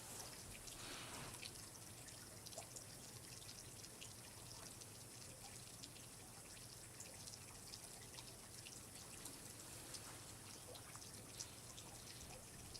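Faint water dripping: many small, irregular drips over a soft, steady hiss.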